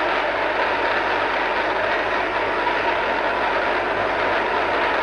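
A large congregation praying aloud all at once, many voices blending into one steady, dense wash of sound with no single voice standing out.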